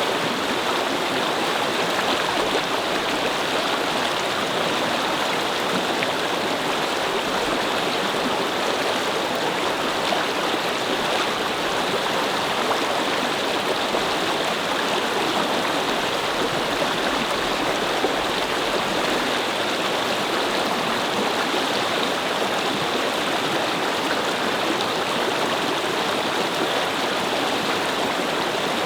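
A babbling brook: water flowing and splashing over stones in a steady, unbroken rush.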